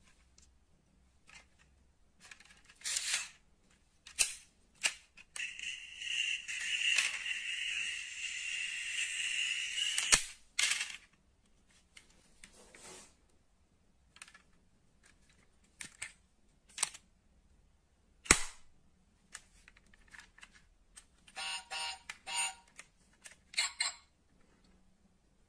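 Sharp clicks and clacks of small diecast metal model cars being handled, with a steady whirring scrape lasting about five seconds early on and a brief buzzing, pitched sound near the end.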